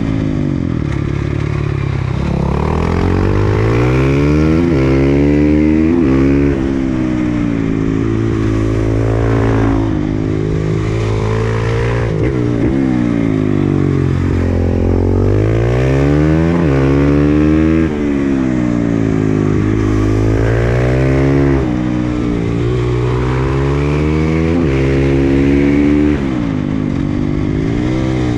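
KTM 500 EXC-F single-cylinder four-stroke engine with an FMF exhaust, ridden hard: the revs climb and fall over and over, with several sudden drops in loudness where the throttle is closed, over a rush of wind on the microphone.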